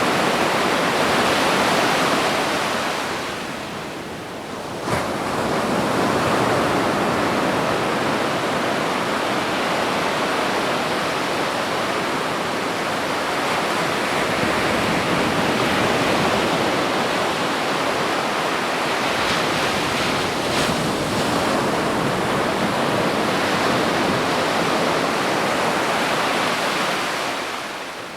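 Ocean surf washing onto a beach: a steady rushing wash of waves that eases for a moment about four seconds in, with a sharp click about five seconds in, and eases again at the very end.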